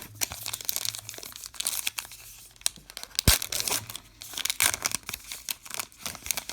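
Crinkly wrapper of a baseball card pack being torn open and crumpled, with one sharp snap about halfway through.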